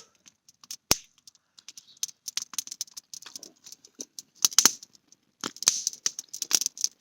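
Campfire crackling: irregular sharp, high-pitched clicks and crackles, with one louder pop about a second in.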